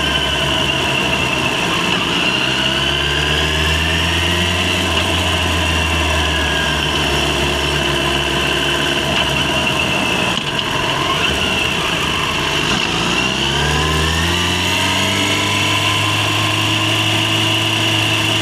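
Yamaha FZ6 inline-four motorcycle engine under way, rising in pitch as it accelerates about two seconds in and again near fourteen seconds in, with a brief dip about ten seconds in.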